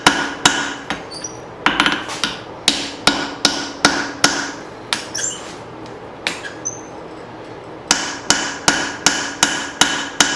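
Cross-pein hammer striking hot leaf-spring steel on an anvil, about two to three blows a second, with the anvil ringing after each blow. The blows stop for a couple of seconds midway, apart from a few lighter taps, then pick up again.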